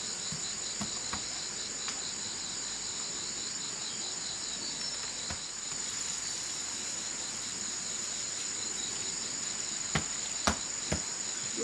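Crickets or similar insects chirring steadily: one high continuous trill, with a lower evenly pulsing trill beneath it. A few sharp knocks sound near the end.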